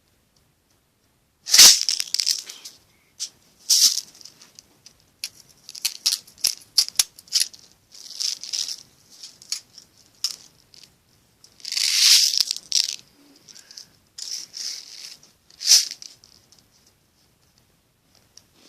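A toy and its plastic packaging being handled and shaken: irregular bursts of rattling with many sharp clicks, loudest about two seconds in and again near the middle.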